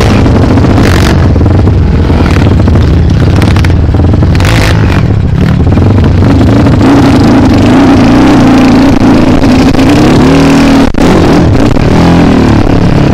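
Dirt bike engine running loud and close, its pitch held steady through the middle, then rising and falling with the throttle near the end.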